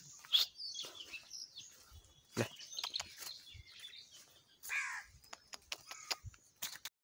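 Scattered bird calls: short high chirps and a few harsher caw-like calls, with small clicks and taps between them.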